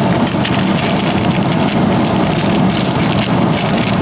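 Steady low engine rumble of a dinner-cruise boat, with no breaks or changes.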